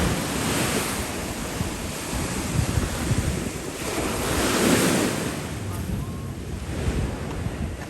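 Wind buffeting the microphone over a steady rush of surf, swelling once about halfway through as a wave comes in.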